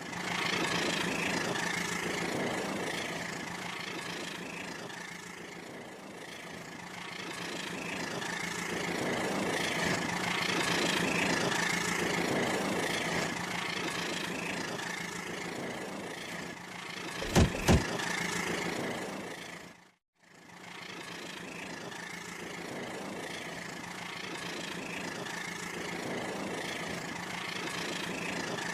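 Battery-powered toy train running on its track: a steady motor whir with wheel rattle. Two sharp knocks about 17 seconds in, and the sound drops out briefly around 20 seconds in.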